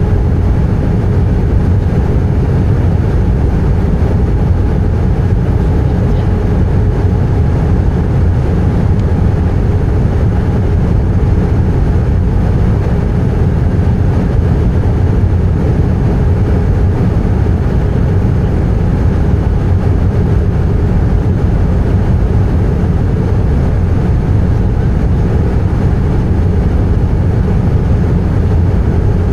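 Airbus A320 cabin noise from a window seat: a steady, loud rumble of engines and airflow with a faint hum over it.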